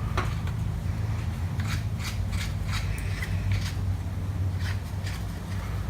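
Scattered small metallic clicks and scrapes as a lathe tool's steel shaft is worked into the loosened clamp of a Blackline tool handle.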